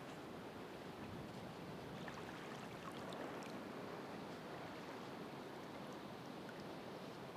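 Ocean waves washing in a steady, even rush of surf, with faint scattered ticks.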